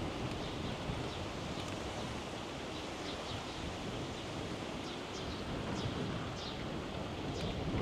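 Steady rushing of wind over the microphone during a bicycle ride, with many short, high, downward-sliding bird chirps over it.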